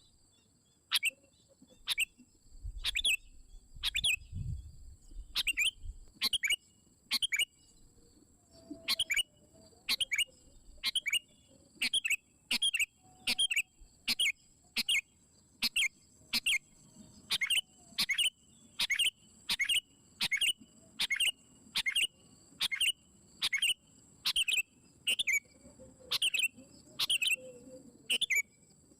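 Sooty-headed bulbul (kutilang) calling persistently: short, sharp notes repeated about one to two a second, each a quick downward sweep, often in pairs. A faint steady high tone runs beneath, with a low rumble about three to five seconds in.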